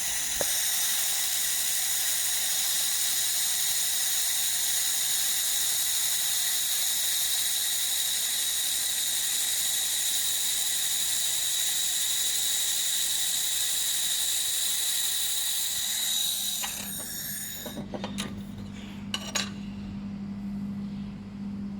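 Handheld laser welder running: a steady hiss with several high-pitched whining tones, which stops about seventeen seconds in. After that a steady low hum remains, with a few clicks.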